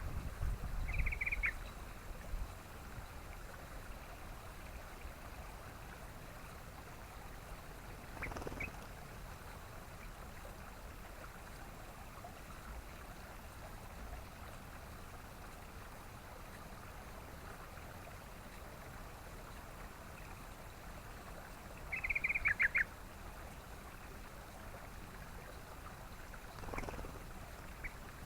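Yellow-vented bulbul (trucukan) giving short bursts of rapid chattering notes, once about a second in and again, louder, about three quarters of the way through, over a steady background hiss.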